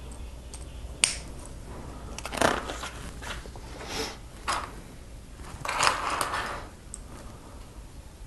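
Lego pieces being handled and pressed together: a sharp plastic click about a second in, then several more clicks and a longer rustling scrape around six seconds in.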